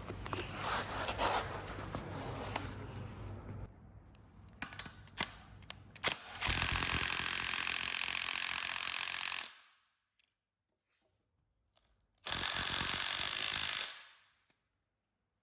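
Power tool run in two bursts, about three seconds and then under two seconds, each starting abruptly and winding down, after a stretch of clicks and tool handling.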